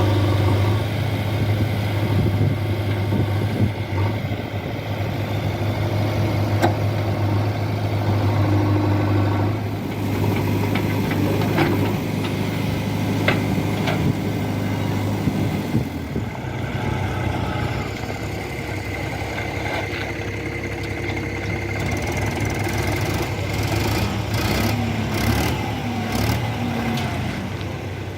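Heavy diesel engine running steadily, with scattered short knocks and clanks, more frequent in the second half.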